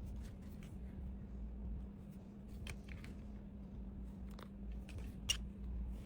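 Faint scattered clicks and rustles of small items being handled and packed, with a sharper click about five seconds in, over a low steady hum.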